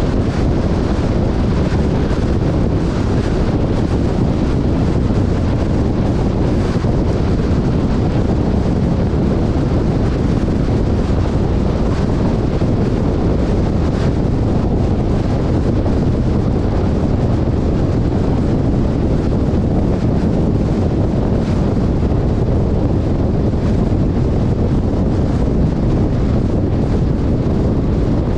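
Steady wind buffeting the microphone over the low rumble of an off-road vehicle driving through desert sand.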